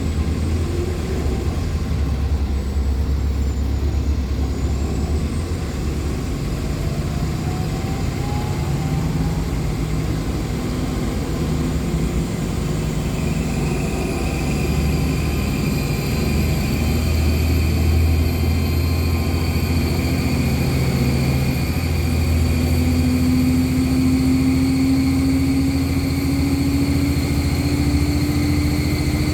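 Drivetrain of a 2014 NOVA LFS articulated hybrid bus (Cummins ISL9 diesel, Allison H50 EP hybrid drive), heard from inside the cabin: a steady low engine and road rumble. From about halfway in, a high whine joins it and slowly climbs in pitch.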